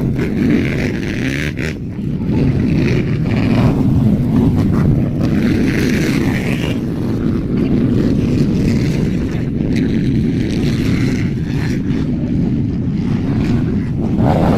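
Motocross dirt bikes running on the track, their engines rising and fading in waves, under heavy wind buffeting on the microphone.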